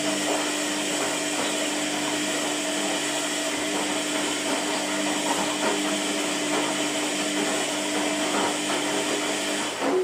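Washing machine running: a steady motor hum over a rushing noise that cuts off suddenly at the end.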